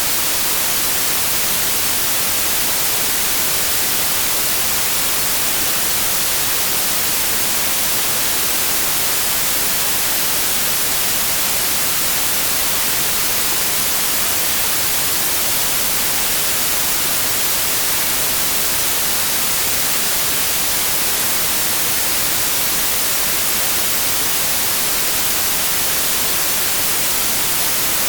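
Pure white noise, a steady even hiss with no changes.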